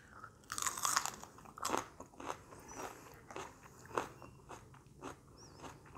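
A person biting into and chewing raw, crunchy salad vegetable close to the microphone: one loud crackling bite about half a second in, then a run of shorter chewing crunches that grow fainter.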